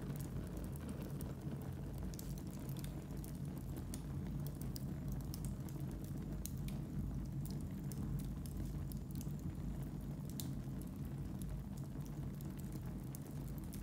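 Wood fire burning in a fireplace: a steady low rush of the flames under frequent sharp crackles and pops, scattered irregularly throughout.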